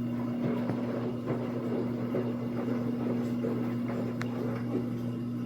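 Samsung AddWash front-loading washing machine draining: the drain pump hums steadily while the drum tumbles, with irregular soft knocks and a single sharp click about four seconds in.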